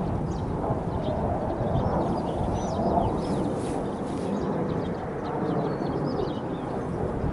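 Small birds chirping and twittering in short repeated calls over a steady low outdoor rumble.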